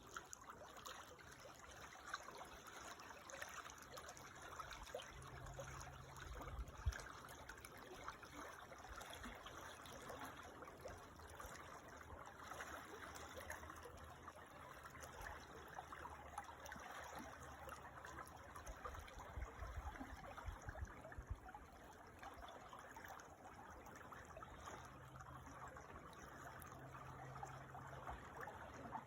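Creek water trickling and babbling, a faint, steady rush of water. A few brief low rumbles come and go, one sharper about seven seconds in.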